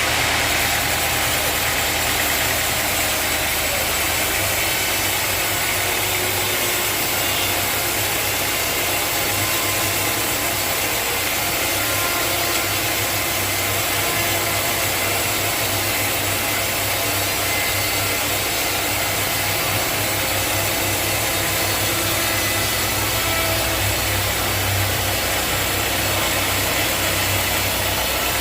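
Sawmill machinery running steadily: a constant motor hum under an even hiss, with no pauses or changes.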